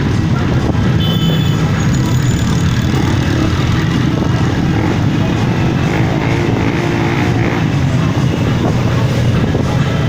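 Engines of many motorcycles running as a procession rides past, a loud, steady low rumble.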